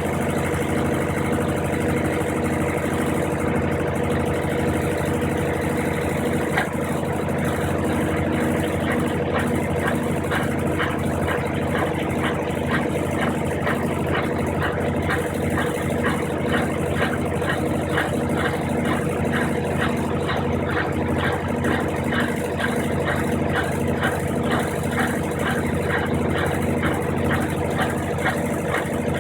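Brastemp 15 kg washing machine running in its rinse-and-spin program: a steady motor hum with a pulsing low tone, joined about a third of the way in by a regular swishing several times a second.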